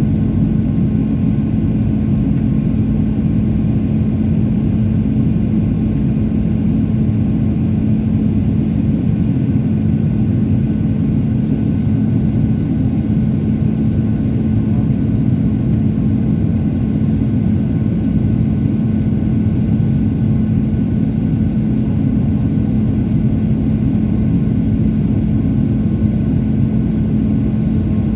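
Steady, loud drone of an aircraft engine, with a constant low hum over a rumbling background that never changes.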